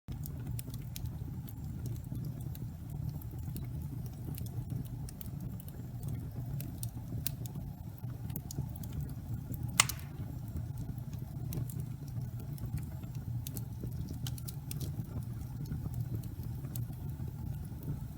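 Wood fire burning in a fireplace: a steady low rumble with frequent small crackles and one louder pop about ten seconds in.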